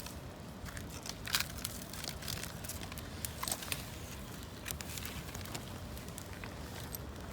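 Campfire of gathered branches and leaves crackling: scattered sharp pops over a steady low background rumble, the loudest pop about a second and a half in.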